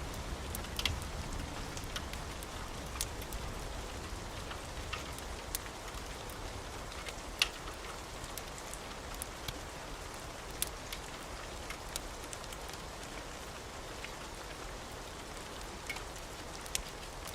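Wood fire crackling in a fireplace: a steady hiss with scattered sharp pops, the loudest about seven seconds in.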